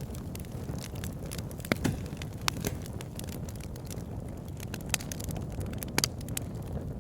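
Campfire burning: a steady low rumble of flames with sharp wood pops and crackles at irregular moments, the loudest near the middle and near the end.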